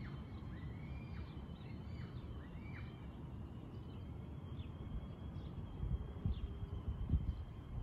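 Birds chirping: several short arched calls in the first three seconds, then fainter chirps, over a steady low outdoor rumble with a few bumps near the end.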